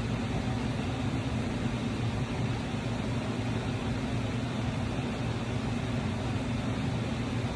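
Steady hum of an electric fan running, even and unchanging, with no cranking from the starter.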